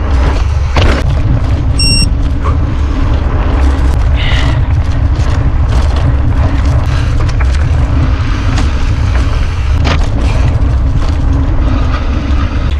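Heavy wind buffeting on the microphone of a camera riding on a mountain bike, with rattles and knocks from the bike going over rough trail. A short electronic beep sounds about two seconds in.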